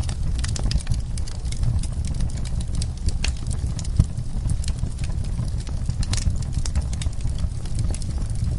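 Wood fire in a fireplace crackling: irregular snaps and pops over a steady low rumble, with one sharper pop about four seconds in.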